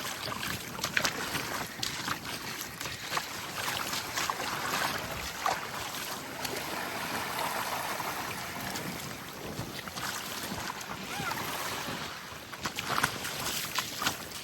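Small waves washing and lapping on the shore, swelling and easing, with wind buffeting the microphone.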